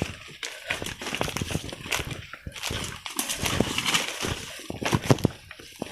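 Irregular footsteps rustling and crackling through forest undergrowth, with short snaps and scuffs.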